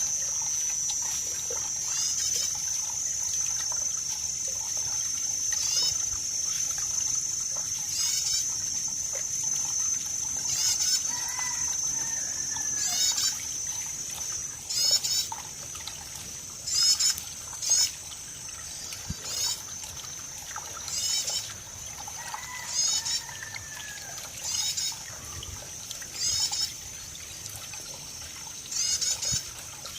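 Water trickling and running steadily. Over it are a steady high-pitched drone that fades out about halfway through and repeated short, high chirps every second or two, loudest around the middle.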